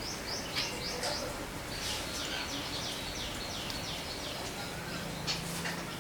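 Jungle babblers calling: bursts of short, high, down-slurred squeaky notes, several a second, with a few sharp taps in between.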